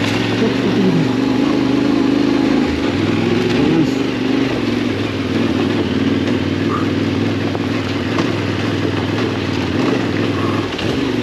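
Yamaha Tenere 700's parallel-twin engine running while the bike is ridden, its pitch wavering a little near the start and again about three seconds in, over a steady rush of noise.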